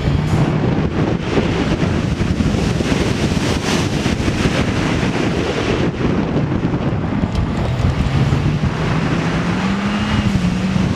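Car engine running under load, with heavy wind buffeting the microphone; the engine note climbs in the last few seconds.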